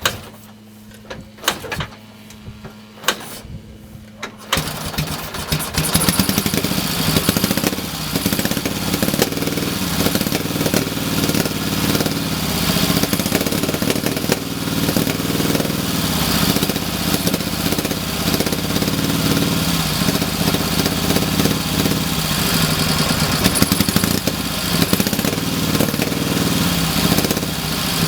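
A few sharp clicks, then the 1962 Ural M-62's K-750M flat-twin side-valve engine catches about four and a half seconds in and keeps running, loud and rough-edged. The engine is running unevenly after many years out of use.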